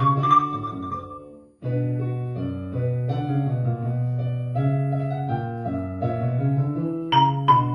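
Instrumental ensemble music. Ringing mallet-percussion notes fade out and stop about a second and a half in. A keyboard passage of sustained chords over a bass line follows, and bright struck mallet notes come back in near the end.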